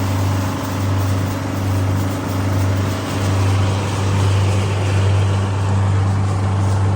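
A rice-harvesting machine's engine running steadily at a constant speed, a low hum with a noisy mechanical wash over it.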